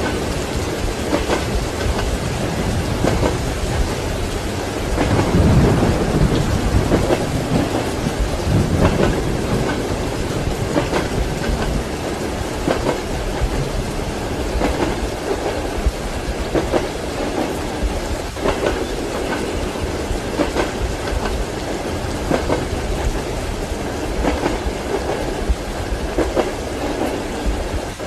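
Steady rain with a roll of thunder that swells about five seconds in and fades by about nine seconds. Under it, a moving train's wheels knock over the rail joints about every two seconds.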